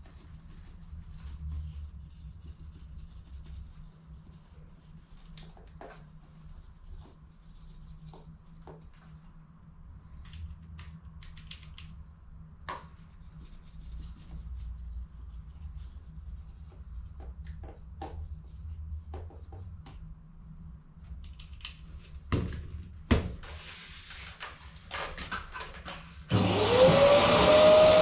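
Light scattered clicks and taps of small parts being handled over a low hum, then near the end an electric blower motor switches on, its whine rising quickly to a steady pitch.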